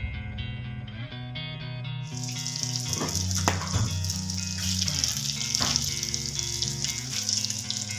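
Chicken kebabs frying in hot oil: a loud sizzle that starts about two seconds in and keeps on, over background music.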